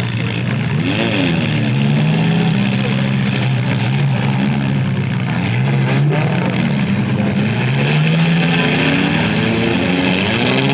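Engines of several compact demolition-derby cars revving up and down at once, their notes rising and falling over one another.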